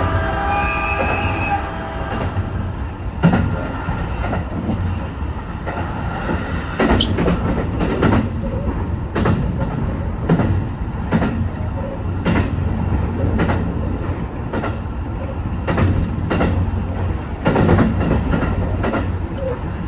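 HB-E210 hybrid train running along the track, with a steady low rumble and wheels clicking over rail joints about once a second. A brief whining tone sounds in the first second and a half.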